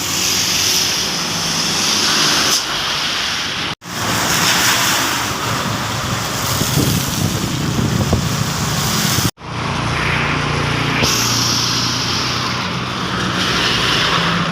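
Truck engines running low as vehicles pass on a wet road, under a loud steady hiss of heavy rain and tyre spray. The sound cuts out abruptly twice, about four and nine seconds in.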